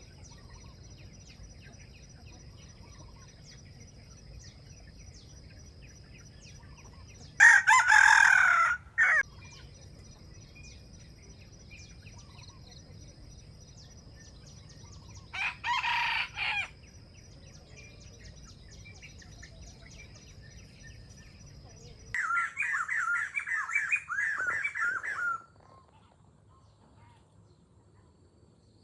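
Junglefowl roosters crowing: a loud crow about seven seconds in, a second, quieter crow at about the halfway point, and a run of quick repeated calls late on. A steady high insect buzz runs underneath until the last call starts.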